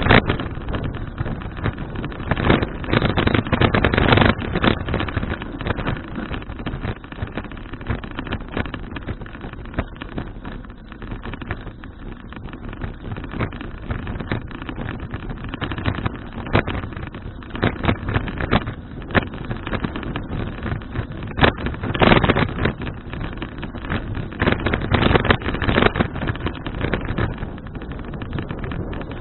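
Wind buffeting an action camera's microphone on a moving bicycle: a rushing noise that gusts louder now and then, strongest in the first few seconds and again a little past the middle.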